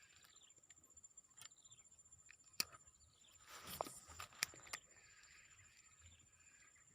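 Quiet outdoor ambience with a steady high-pitched insect drone, broken about halfway through by a short rustle and several sharp clicks.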